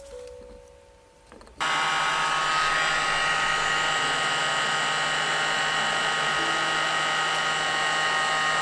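A small handheld electric motor tool switched on about a second and a half in and running steadily at one speed, with a whine of several fixed tones over a rushing noise.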